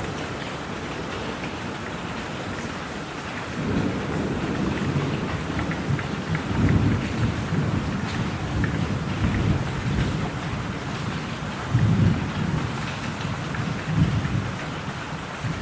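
Steady rain hissing, with thunder rumbling in low about three and a half seconds in and swelling in several rolls.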